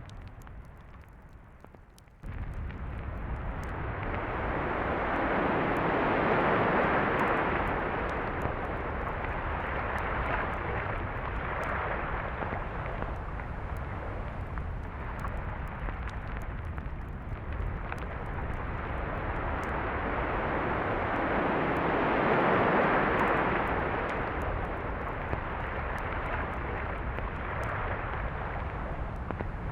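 Sea surf on a beach: the steady wash of waves, with two slow swells as waves break and roll in. The level jumps suddenly about two seconds in.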